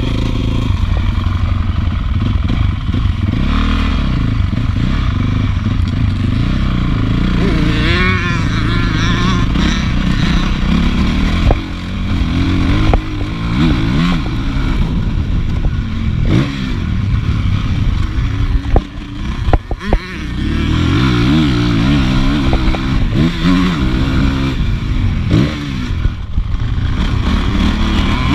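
Honda CRF450 motocross bike's single-cylinder four-stroke engine at racing speed, revving up and down repeatedly as the rider works the throttle through the track's sections. The engine sound drops sharply and briefly twice.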